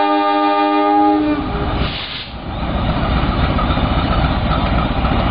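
Diesel locomotive's horn sounding one long chord that cuts off about a second and a half in, then the locomotive's diesel engine running loud and rough as the train pulls out of the station.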